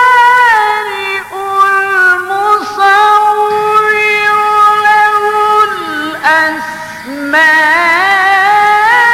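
Melodic Quran recitation: a single voice drawing out long notes that glide slowly up and down, with a short break a little after the middle.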